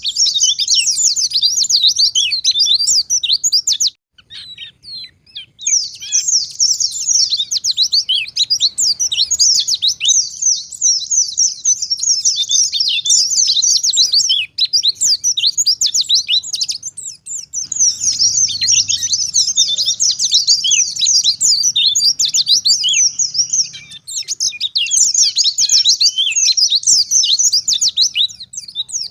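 White-eye (pleci ngalas) singing a fast, nearly unbroken stream of high chirping notes. The song breaks off briefly about four seconds in, and dips twice more later on.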